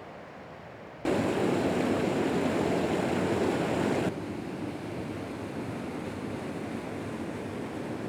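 Steady rushing of a river's flowing water, a constant even noise with no distinct events. It jumps suddenly louder about a second in and drops back suddenly about four seconds in.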